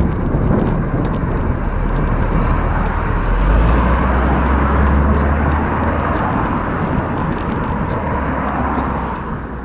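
Wind rumbling on the microphone of a moving bicycle, over road traffic noise: a passing car's rush builds through the middle and fades near the end.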